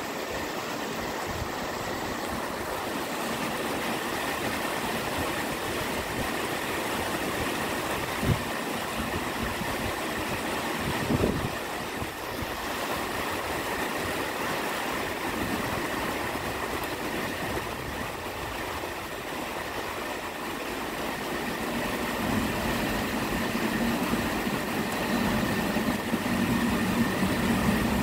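Class 73 electro-diesel locomotives hauling a test train out of the station, a steady running noise with a thin high whine through it. There are two single knocks midway, and a low hum grows louder near the end as a locomotive draws level.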